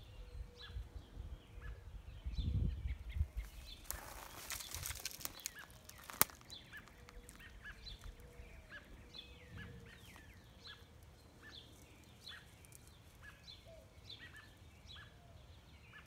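Small birds chirping, short calls repeated every second or so. There is a brief rustle about four seconds in and a single sharp click about six seconds in.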